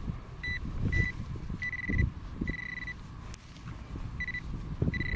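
Metal detecting pinpointer beeping in short and longer bursts at one steady pitch, about six beeps, as it is probed over a buried target in a dug hole.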